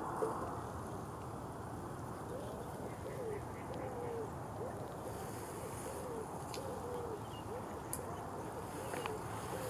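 A bird calling over and over in short, low hooting coos, roughly one or two a second, over a steady outdoor background hiss, with a few faint clicks near the end.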